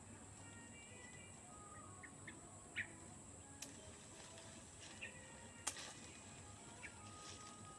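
Near silence: faint quiet ambience with a few short, faint tones and several sharp clicks, two of them louder, about three seconds in and near six seconds.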